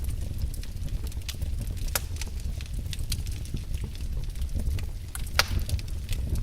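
Wood fire burning in a fireplace, crackling with irregular sharp pops over a low, steady rumble of flames; one louder pop about five seconds in.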